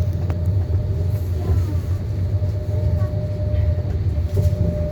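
A tram running, with a steady low rumble and a thin steady whine above it.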